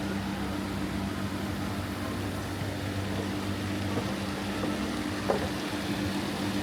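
Steady low mechanical hum, with a couple of faint clicks or knocks in the second half.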